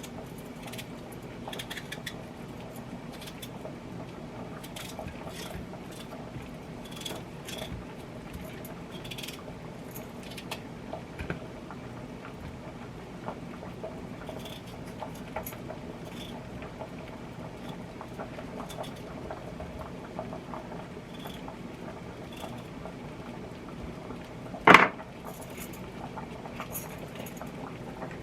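Kitchen food-prep handling: scattered light clicks and clinks of utensils and dishes over a steady low hum, with one sharp loud clank about three-quarters of the way through.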